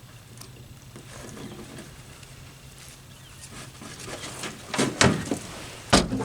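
A few sharp knocks and thumps over a low steady hum, the loudest about five and six seconds in.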